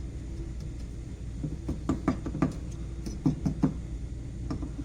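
Hammer blows knocking apart a sand-casting mold to free a freshly cast aluminum pulley: two quick runs of about three knocks each, one about two seconds in and the other about three and a half seconds in.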